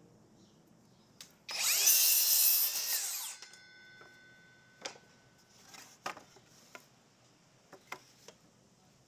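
A power drill running for about two seconds, its pitch rising as it spins up and falling as it winds down, as when driving a screw into wood. Several light knocks and clicks follow.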